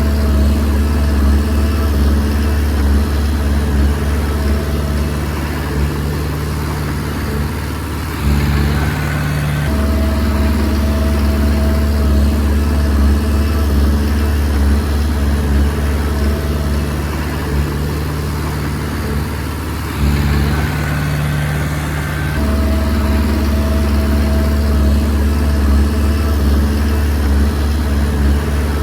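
Komatsu D20P bulldozer's diesel engine running steadily under work. Its note changes briefly twice, about a third and about two-thirds of the way through, as the load shifts.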